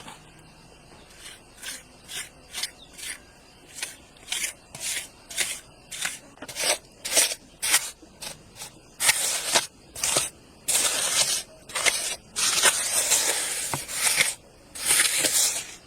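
A series of short scraping or rasping strokes, about two a second, turning into longer, continuous scraping about nine seconds in.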